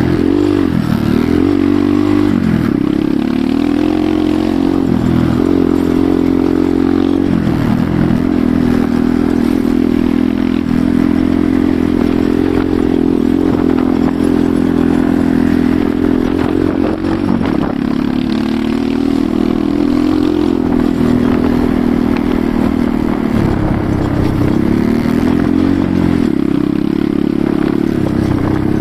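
Enduro motorcycle engine running while riding, its pitch dropping and rising again several times as the throttle is eased and opened.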